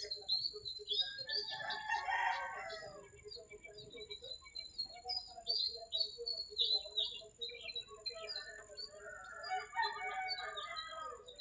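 A rooster crowing twice, about two seconds in and again near the end, over the constant chirping of small birds.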